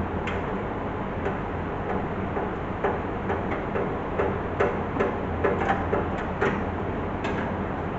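Irregular light taps and clicks, about a dozen, coming closest together in the middle, over a steady low hum.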